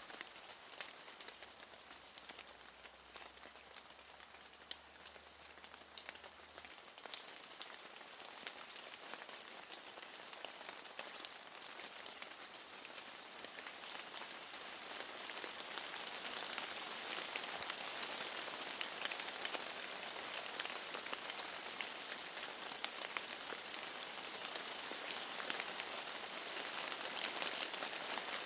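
Steady rain falling, with a dense patter of individual drop ticks, growing louder about halfway through.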